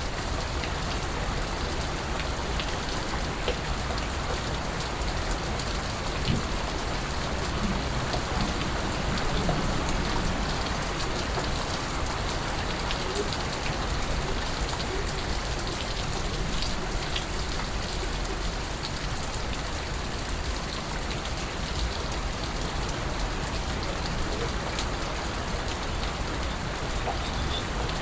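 Steady rain falling, with scattered individual drips landing on surfaces.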